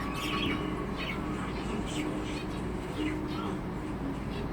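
Budgerigar chirping in short, scattered calls, several a second, over a steady low hum.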